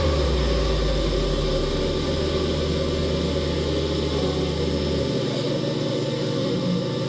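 Wood-Mizer portable band sawmill running steadily on its engine. Its deep low part drops away about five seconds in, leaving a lighter, steady running sound.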